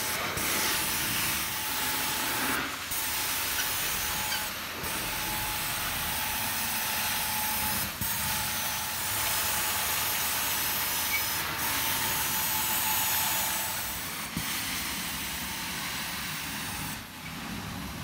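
Hot-water carpet extraction tool running on the final rinse pass, spraying hot water and sucking it back up through its vacuum hose: a steady hiss with a steady whine, breaking off briefly a few times and easing near the end.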